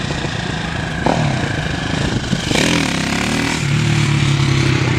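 Tractor engine running steadily, its pitch shifting a little and holding steady in the second half, with some brief clatter.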